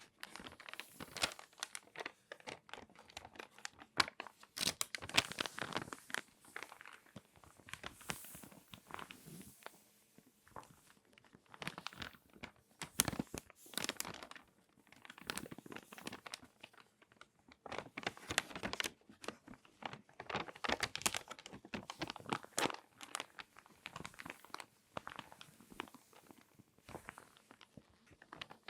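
Glossy magazine pages being folded and crinkled by hand, in close-up: dense irregular crackling in bursts of several seconds separated by brief pauses.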